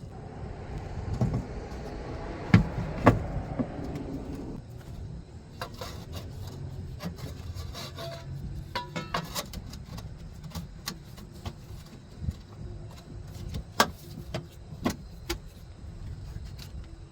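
Hand tools and metal parts clinking and knocking during work on a truck's front end: scattered sharp clicks, with two louder knocks about two and a half and three seconds in, over a rough noisy layer that stops after about four and a half seconds.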